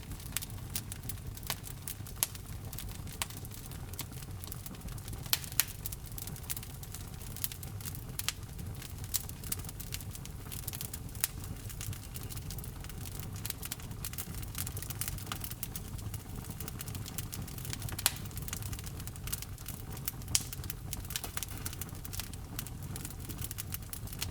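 Wood fire burning in a fireplace: a steady low rumble of the flames with frequent irregular crackles and sharp pops of burning logs.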